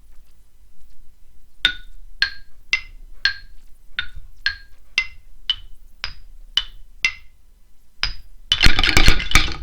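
Toy xylophone struck one note at a time, about a dozen high notes roughly two a second, each ringing briefly. Near the end comes a loud clatter.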